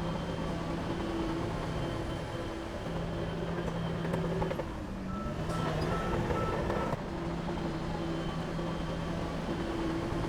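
Heavy diesel construction machinery running steadily with a deep hum. About halfway through, a reversing alarm beeps briefly, about four short beeps.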